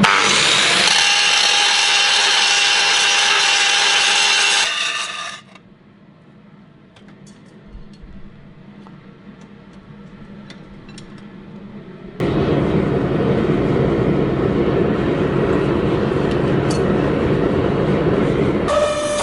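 Power tools working steel: a loud, steady grinding noise with a whine in it for about five seconds, then a quieter stretch with light clicks and taps, then a different, lower-pitched grinding noise from about twelve seconds in.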